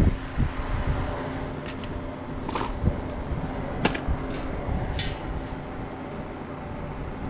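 Steady mechanical hum with a few sharp clicks and knocks of hands working on a unit, about a second apart near the middle.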